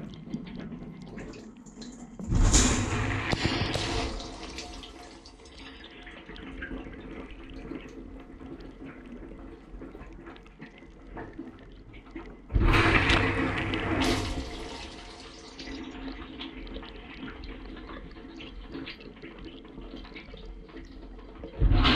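Dishwasher running, heard from inside the tub: three loud surges of spraying water about ten seconds apart, each lasting about two seconds, over a steady lower hum of the wash pump and water.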